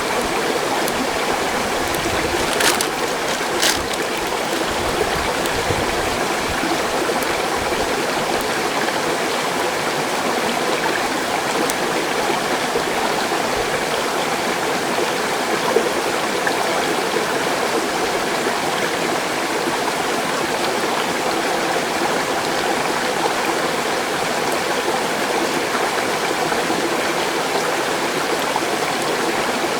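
Mountain stream rushing steadily over rocks, a constant loud flow of water. Two short sharp clicks stand out about three seconds in.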